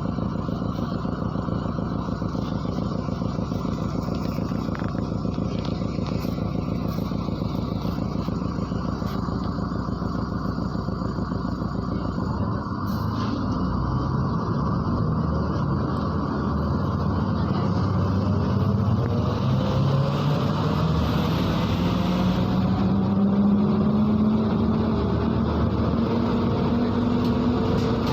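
MAZ-103 city bus heard from inside the passenger cabin: steady engine and road noise, then about halfway through a drone that rises steadily in pitch as the bus accelerates.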